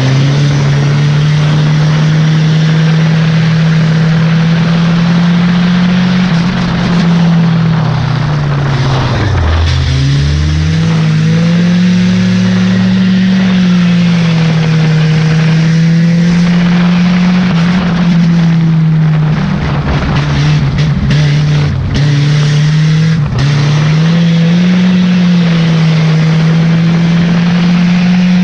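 Race car's engine heard from inside its stripped cabin, running hard at speed, its pitch rising and falling through the turns. About nine seconds in it drops sharply as the throttle comes off, then climbs back up.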